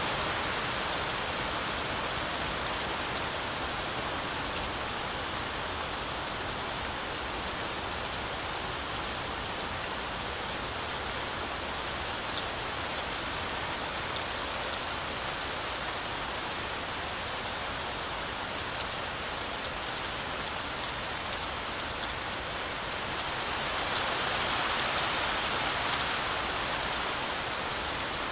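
Heavy rain falling steadily through a forest canopy, a continuous hiss with scattered drop patter, swelling a little louder near the end.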